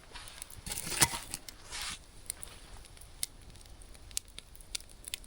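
Wood campfire crackling with scattered sharp pops. About a second in there is a louder rustling hiss with one sharp crack, and a shorter rustle follows just before two seconds.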